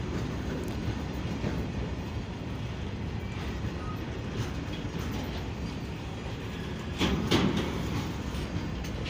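Goods train of loaded hopper wagons rolling slowly past, a steady low rumble of steel wheels on the rails, with two louder knocks about seven seconds in.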